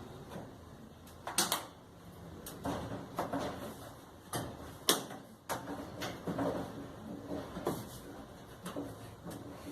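Irregular knocks and clacks of a Brastemp clothes dryer's panels and parts being handled and fitted back together, with a sharp click about five seconds in.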